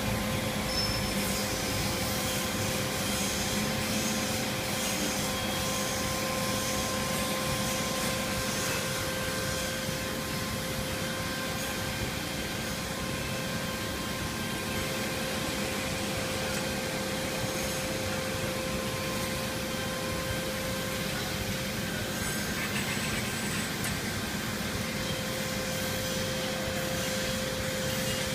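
Steady running noise of a production line feeding rolled saw blade past an inkjet coder: a continuous machine hum with a few steady tones over an even hiss, without pauses or strokes.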